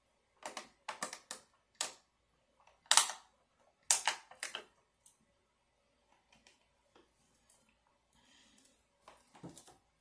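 Close-miked eating sounds: a quick run of crisp, crackly bites and chews into a toasted birria quesadilla, the loudest about three and four seconds in, then fainter mouth clicks and a last few crunches near the end.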